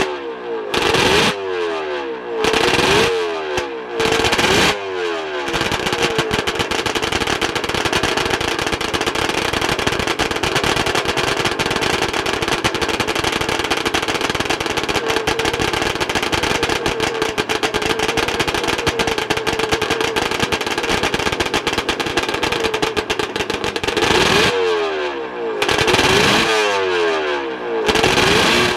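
Harris Barton race bike's 750 two-stroke Suzuki triple being blipped: about five sharp revs, each falling straight back. It is then held at high revs, wavering slightly, for some twenty seconds, and blipped again near the end.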